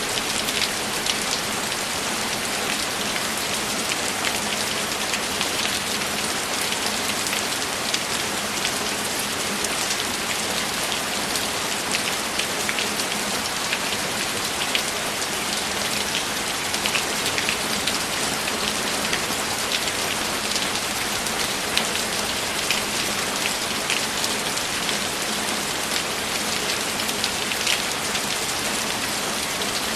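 Steady, heavy rain falling without a break, with many individual drops ticking sharply on a surface above the constant hiss.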